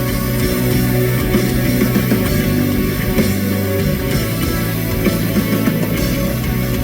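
Live rock band playing loudly through an instrumental passage with no vocals. The low bass notes drop out briefly about halfway through.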